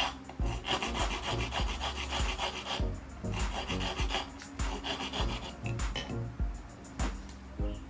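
Repeated rasping strokes of a hand file, in runs with short pauses between them, over steady low background music.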